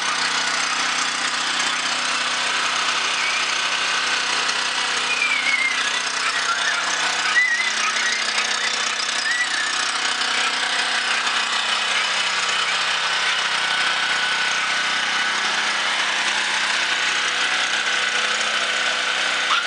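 Brand-new Champion portable gas generator running steadily, fresh from its first-pull cold start. It runs at an even, constant speed, with one brief knock about seven seconds in.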